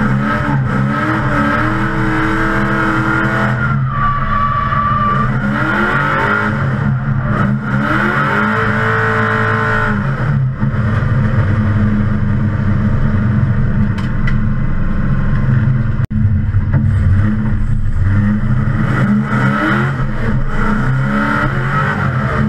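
LS2 V8 engine swapped into a Nissan 350Z, heard from inside the cabin, revving hard through drifts, its pitch rising and falling again and again, with tyres screeching.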